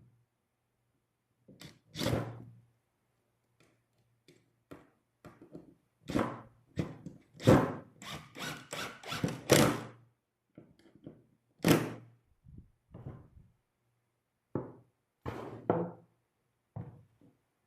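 A string of irregular wooden knocks and thunks from cedar boards of the bench being worked, thickest in the middle, with a faint steady hum underneath.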